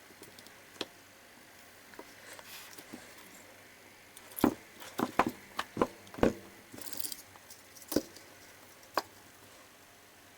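Small tools clicking and knocking against a workbench and circuit board during soldering work, with a quick run of sharp taps about halfway through, a brief rustle, then two single knocks.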